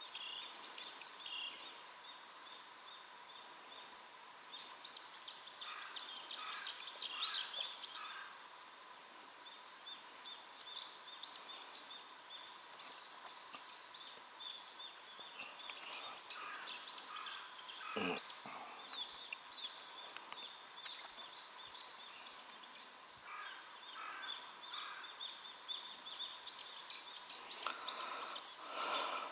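Wild birds chirping and calling in quick, repeated short notes, many at once, with a single sharp knock about eighteen seconds in.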